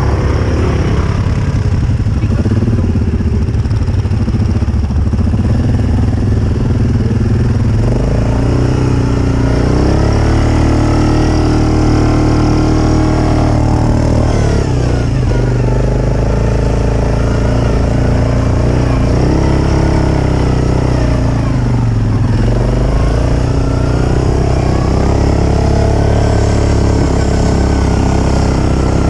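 ATV engine running under load as the quad is ridden, its revs climbing and dropping several times.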